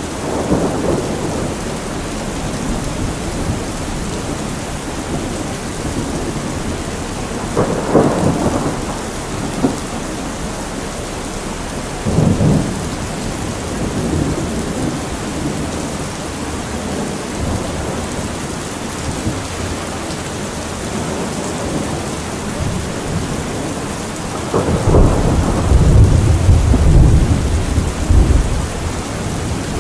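Steady rain with rolling thunder: two short low rumbles in the first half and a longer, louder rumble near the end.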